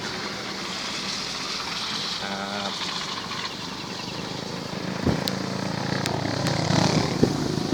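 A vehicle running: a steady noisy hum that gets louder over the last few seconds, with a brief pitched tone about two and a half seconds in.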